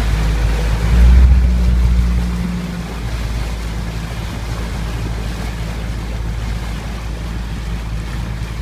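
Canal tour boat's motor running with a steady low hum, swelling louder for a moment about a second in, over a haze of water and wind noise.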